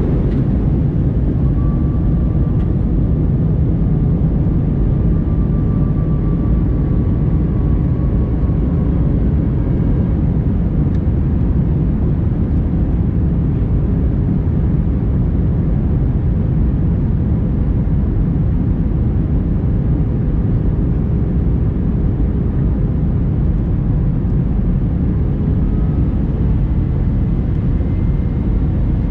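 Airbus A321-200 airliner's cabin noise: a steady, loud, deep rumble of engines and rushing air. A faint whine sinks slightly in pitch over the first several seconds, and a faint hum runs beneath.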